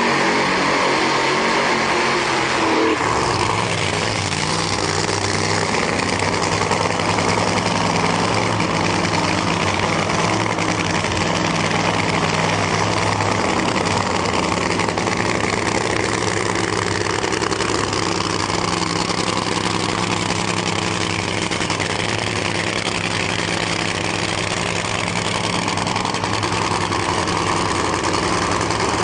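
Nitro-burning drag car engine running at a steady idle, its low, even note shifting in pitch once about three seconds in.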